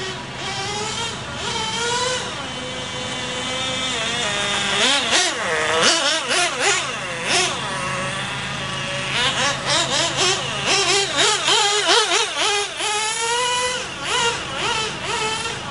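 GO 0.98cc nitro glow engine of a 1/16-scale RC buggy running and being revved, its pitch swinging up and down in quick throttle blips, most busily in two spells in the middle.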